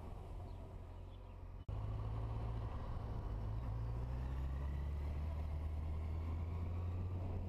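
Yamaha FZ8 motorcycle's inline-four engine running while riding, heard from the bike-mounted camera with some wind noise. It cuts out for an instant a little under two seconds in, then comes back louder and steadier.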